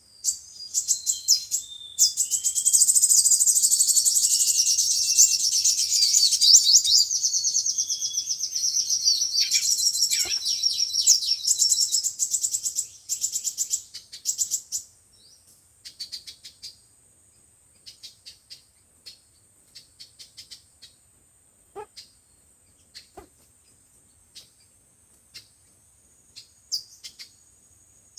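Sunbird song: a long, rapid, high-pitched twittering run for about the first half, then scattered short single chirps.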